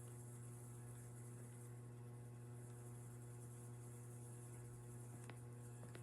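Aloha Breeze 42-inch ceiling fan running: a steady, faint motor hum with a high hiss over it, and two faint ticks near the end.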